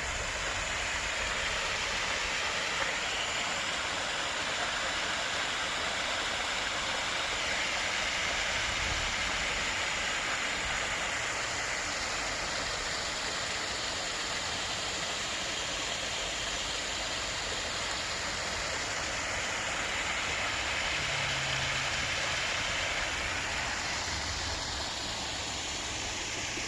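Steady rush of running water in a stream.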